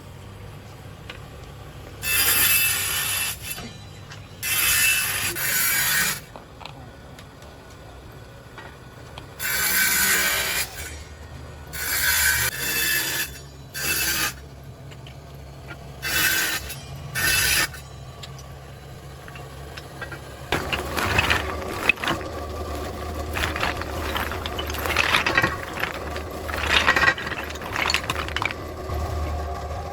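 Workshop machinery working hard material: seven loud grinding or cutting bursts of about a second each, then from about two-thirds of the way in a continuous clattering, rasping run.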